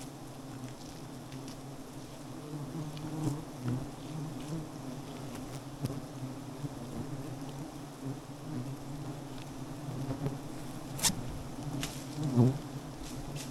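Wild honeybees buzzing steadily around their nest as a swarm, with a couple of sharp knocks near the end.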